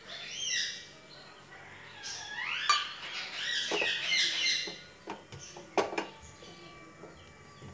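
Birds chirping in two bursts of quick, high warbling calls, with a few sharp metallic clinks of kitchen utensils, the loudest about three seconds in.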